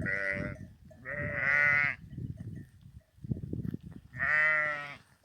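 Sheep bleating, three calls a second or two apart, each long and wavering.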